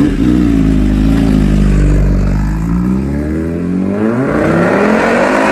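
Motorcycle engine accelerating hard: its pitch sags a little at first, then climbs steadily through the gears over the last three seconds.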